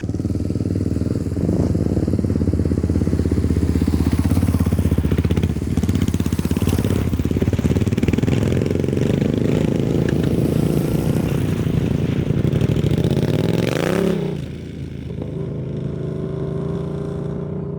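Motorcycle engine running steadily under way. About fourteen seconds in, the pitch briefly rises and falls and the engine drops to a quieter, lower note.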